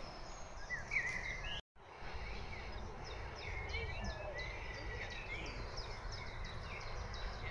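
Several small birds singing and chirping in quick short phrases over a steady low rumble. The sound cuts out for a moment about two seconds in.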